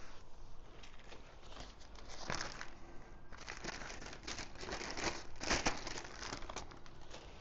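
Crinkling and rustling of something being handled, a dense run of short crackly rustles starting about two seconds in.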